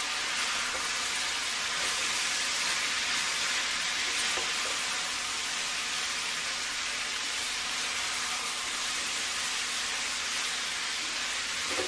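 Cabbage and potato sabzi sizzling steadily in a hot oiled pan while being stirred with a wooden spatula.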